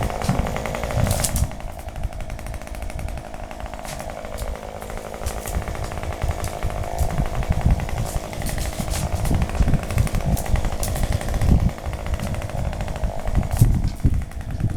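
Two-stroke chainsaw running, its engine pitch wavering as the throttle and load change while cutting.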